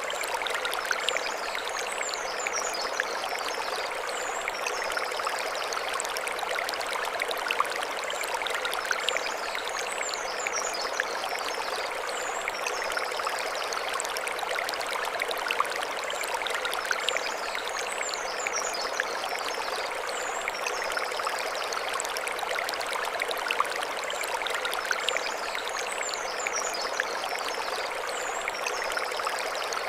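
Mountain stream flowing and splashing over stones, a steady rushing with fine crackle. High bird chirps in short phrases come in about every eight seconds.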